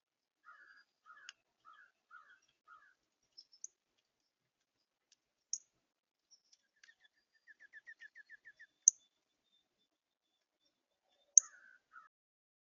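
Songbirds calling at a feeder: a run of about five short calls, then a quick trill of about ten even notes, with a few loud, sharp high chips in between.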